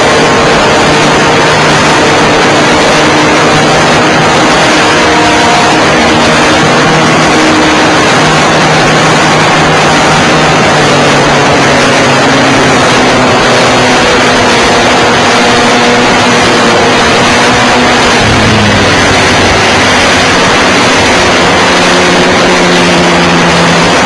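Nitro glow engine of an RC model plane running at high power, very loud and close, with a heavy rush of wind noise. Its pitch rises and falls with throttle changes as the plane manoeuvres.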